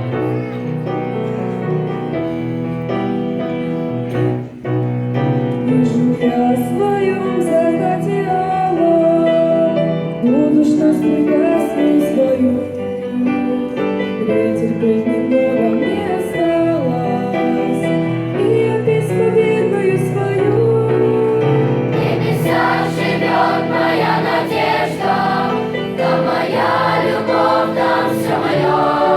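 Children's choir singing a Russian hymn over sustained keyboard chords; the singing grows fuller and brighter about three quarters of the way through.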